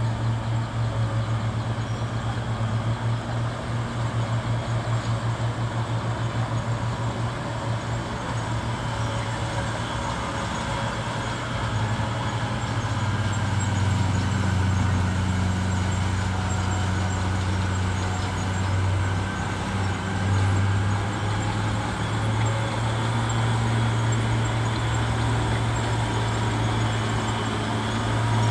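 Bulldozer's heavy diesel engine running under work. The note pulses for the first several seconds, then drops a little lower a bit under halfway through and holds steady.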